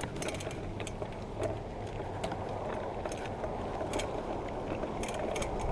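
Bike tyres rolling over wet pavement, a steady low noise with scattered small clicks and ticks throughout.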